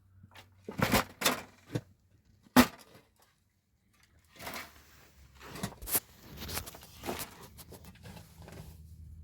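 A few knocks and clatters as objects are handled, with one sharp knock about two and a half seconds in. Then a stretch of scraping and rustling with more knocks.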